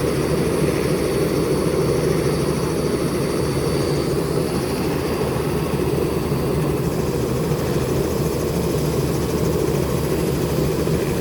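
Helicopter running: steady engine and rotor noise with a fast, even beat in the low end.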